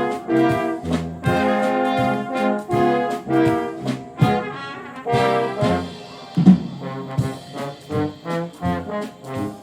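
Wind orchestra playing, led by trombones and trumpets. Held brass chords give way, about halfway through, to shorter separated notes, with one sharp accent just after that.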